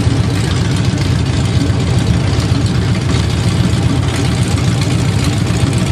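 Car engines idling steadily, loud and low-pitched, with no revving.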